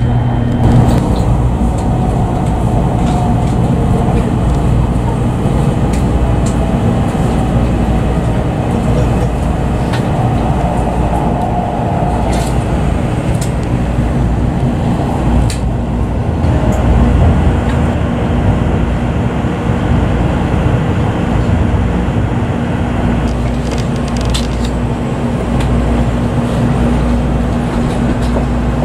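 Kyushu Shinkansen train running at speed, heard inside the passenger car: a steady rushing and rumbling with a constant low hum.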